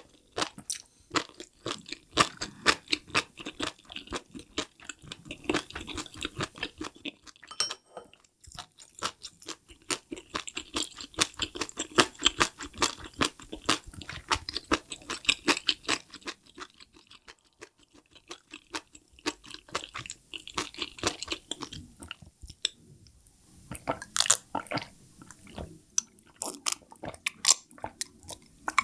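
Close-miked mukbang chewing of spicy enoki mushrooms: dense, wet, irregular mouth clicks and crunches, with a short pause partway through. Near the end come gulps from a glass of drink.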